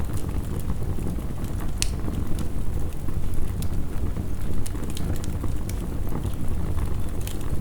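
Crackling wood fire giving off scattered sharp pops and snaps, over a steady low rush of heavy rain.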